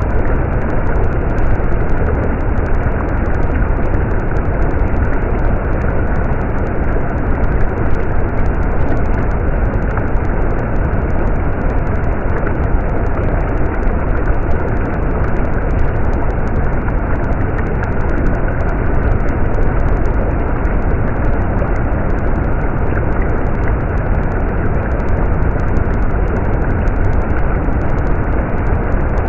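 Stream water flowing steadily: an even, unbroken rush with a strong low rumble.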